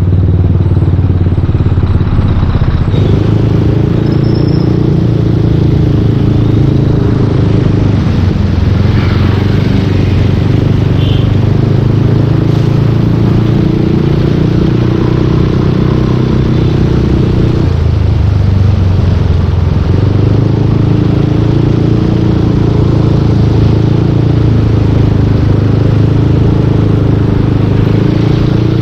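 Yamaha Aerox 155 scooter's single-cylinder engine running through a full Yoshimura aftermarket exhaust while riding, its note holding fairly steady and shifting pitch a few times, with a brief drop in revs about two-thirds of the way through.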